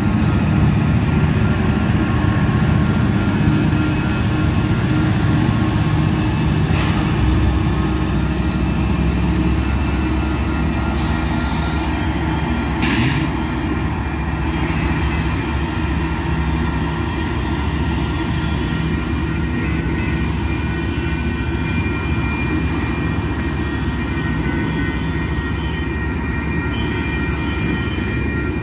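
Union Pacific and Kansas City Southern diesel locomotives hauling a double-stack container freight train rolling past: a steady low rumble of engines and steel wheels on rail, with a thin steady wheel squeal over it and a few sharp clanks from the cars.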